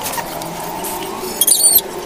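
A short run of quick, high-pitched bird chirps about one and a half seconds in, over a steady low hum.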